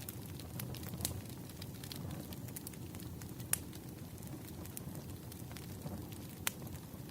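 Wood fire burning in a fireplace: a steady low rumble with irregular sharp crackles and pops, two of them louder, about halfway through and near the end.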